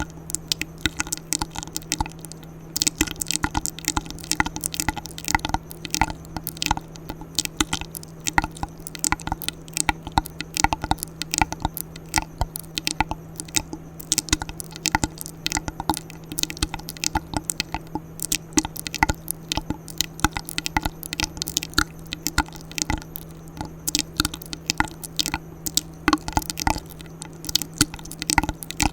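Close-miked ASMR mouth sounds: a rapid, irregular run of sharp wet clicks and smacks, several a second, over a faint steady hum.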